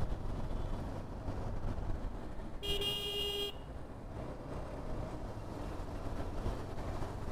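A vehicle horn honks once, a single note a bit under a second long, about three seconds in, over a steady low engine rumble.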